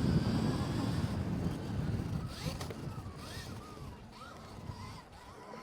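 Stark Varg electric motocross bike's motor whining, its pitch rising and falling with the throttle, over wind rumble on the microphone that dies away over the first couple of seconds.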